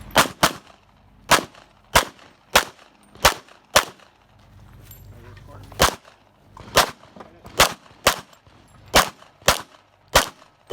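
Competition pistol fired in a timed stage run: about fourteen sharp shots, mostly as quick pairs with short pauses between groups as the shooter moves from target to target.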